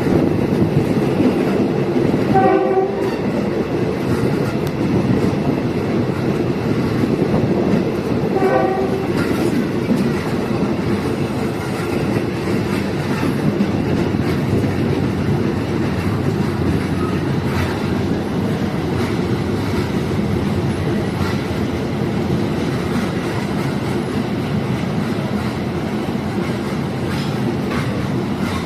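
Diesel multiple-unit train running along the track, a steady rumble of engine and wheels on rail. Two short horn blasts sound, one a few seconds in and another about nine seconds in.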